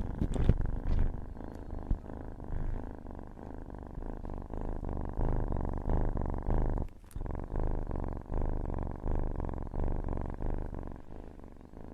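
A cat purring close up: a low, rumbling purr that swells and fades about once a second, with a brief break about seven seconds in.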